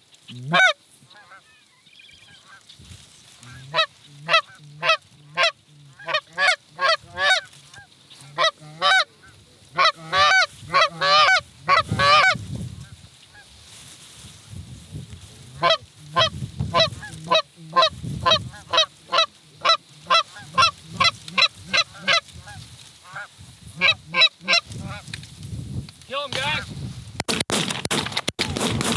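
Goose honks and clucks: quick runs of short, sharp calls, a few each second, that come in two long spells with a brief lull between them. A rush of noise rises near the end.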